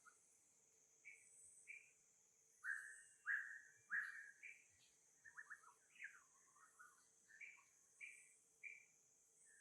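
Faint birdsong of short, repeated chirps, loudest in a run of three notes around the middle, over a steady high insect buzz.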